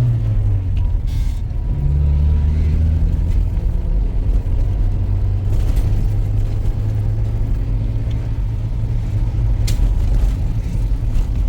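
Tractor engine running: a deep, steady drone whose pitch shifts about two seconds in, with a couple of brief clicks.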